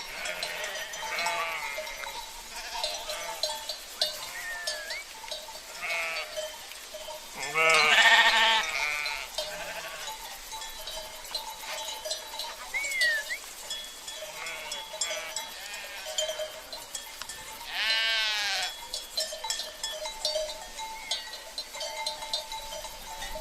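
A flock of sheep bleating over and over, with two long, loud bleats, one about a third of the way in and one about three quarters of the way in, while livestock bells clink and ring.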